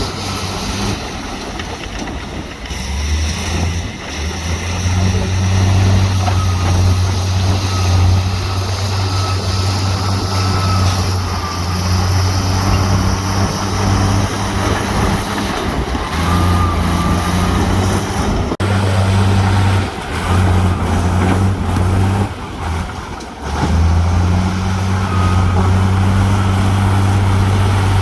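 Heavy diesel earthmoving machinery running under load, a steady deep engine hum over mechanical noise. The hum drops away briefly a few times in the second half and then comes back.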